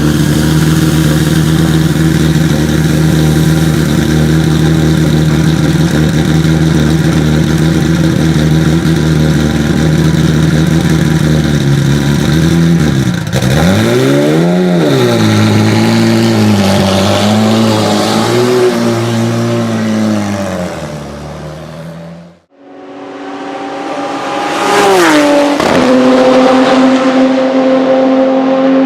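Porsche 997 GT2 RSR's twin-turbo 3.9-litre flat-six running at a steady pitch, then revving up and down several times before fading out. After a brief drop-out it comes back loud, sweeps sharply down in pitch and settles on a steady, higher note.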